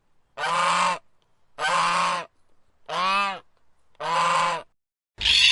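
Goose honking: four separate honks about a second apart. A different, harsher sound starts just at the end.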